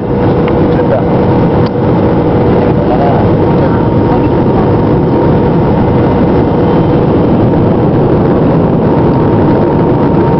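Airliner engines and airflow during the takeoff climb, heard from inside the passenger cabin as a loud, steady rush with a faint steady whine running through it.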